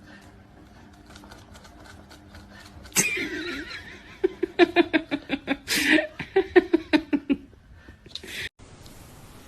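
A person laughing hard in quick repeated bursts, about five a second, for about three seconds. The laughter follows a sudden noise about three seconds in.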